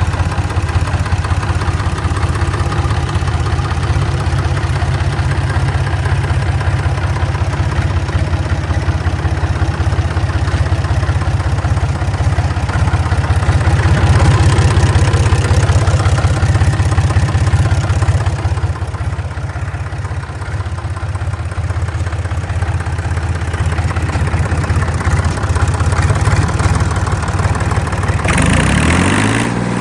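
Deutz F3L912 air-cooled three-cylinder diesel engine running steadily at low speed, a little louder for a few seconds midway. Near the end its revs climb quickly.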